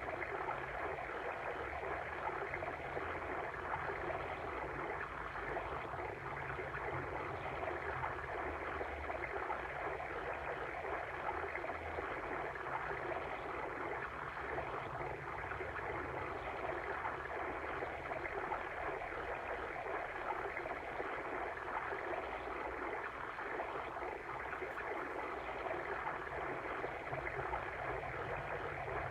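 Water stream flowing steadily: an even, unbroken rushing sound with no breaks.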